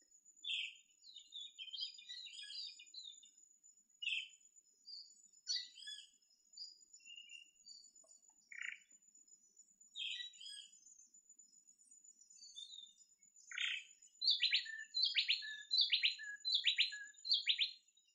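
Birds chirping and calling in scattered short notes over a steady thin high tone. From about three quarters of the way in, a louder run of quick, repeated down-slurred notes.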